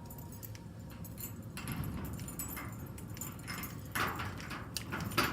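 An old up-and-over garage door being unlocked and worked loose: the key and handle rattle, there is scraping from about one and a half seconds in, and two sharp clacks come near the end as the latch lets go.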